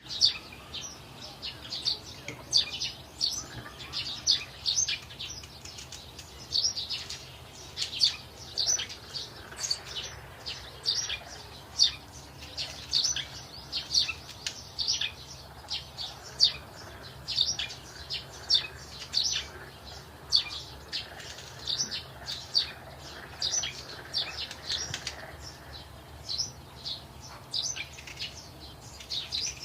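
Small birds chirping: a steady run of short, high chirps, about two a second.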